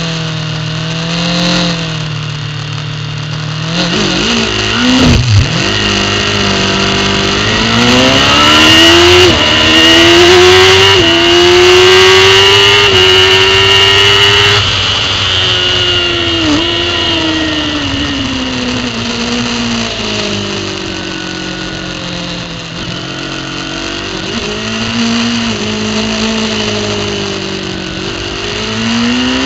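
Superbike engine heard from a camera mounted on the bike, accelerating hard through the gears. Its pitch climbs and drops back briefly at each upshift, then falls away through the downshifts into a corner, and rises again near the end.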